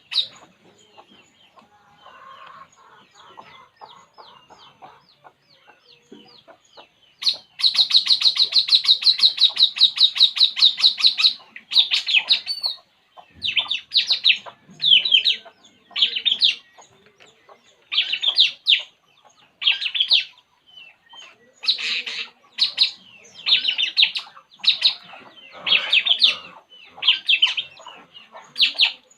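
Puling bird singing: faint chirps at first, then about seven seconds in a loud, rapid, high trill lasting about four seconds, followed by a long run of short, high phrases repeated about once a second.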